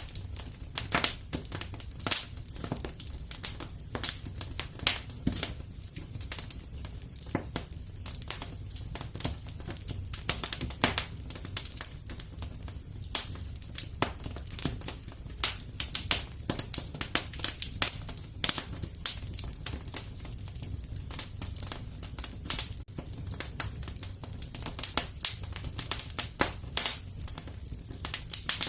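Wood fire crackling and popping steadily, with irregular sharp snaps over a low rumble of the flames.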